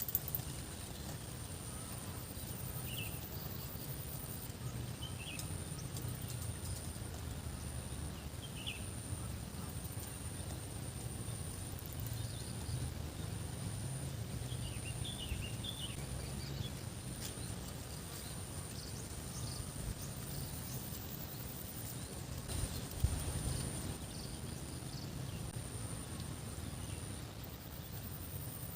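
Rural outdoor ambience: a steady low rumble under a continuous high, thin whine, with scattered short chirps and a single knock about 23 seconds in.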